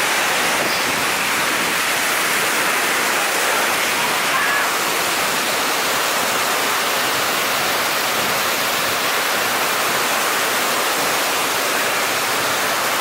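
Seljalandsfoss waterfall thundering down at close range at its base: a loud, steady rush of falling water with spray.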